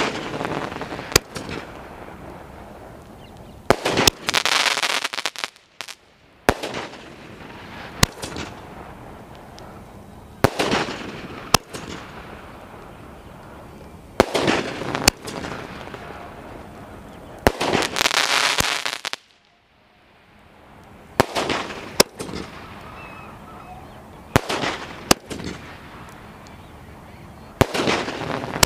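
Twelve-shot aerial fireworks cake firing its shells one after another: sharp bangs, each followed by a crackling burst of stars overhead, recurring about every three to four seconds.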